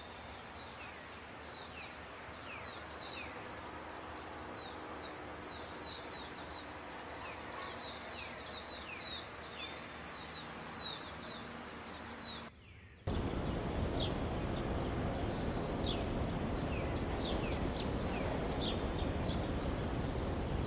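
Small forest birds chirping in quick short falling notes over a steady high tone. About two-thirds of the way through it cuts abruptly to a louder, even rush of flowing river water, with the birds still calling over it.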